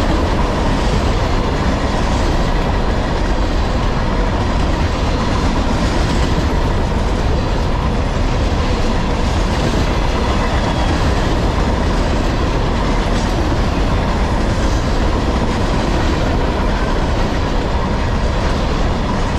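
Freight train of loaded open-top gondola cars rolling steadily past at close range: a continuous rumble of steel wheels on the rails, with a faint steady whine over it.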